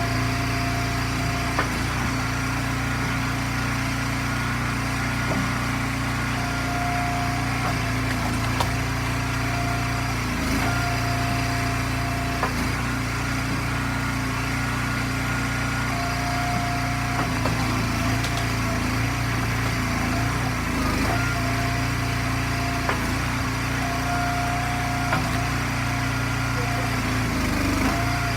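Small gas engine of an Eastonmade hydraulic firewood splitter running steadily, with a higher tone that comes in for about a second every few seconds and scattered sharp knocks.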